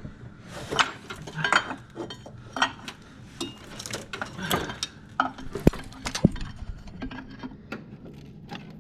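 Irregular metallic clinks and knocks of hand tools against metal engine parts, with two sharper clanks a little past the middle.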